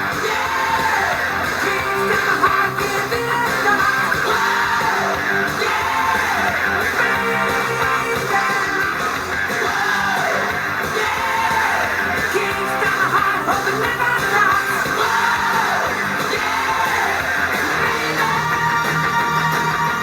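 A song with guitar and a singing voice in rising and falling arched phrases, played back on a DOSS SoundBox Touch 12 W Bluetooth speaker.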